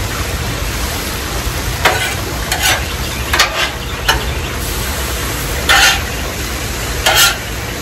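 Vegetables and fried rice sizzling on a hot flat-top griddle as soy sauce is shaken on, with a metal spatula scraping across the plate in several short strokes.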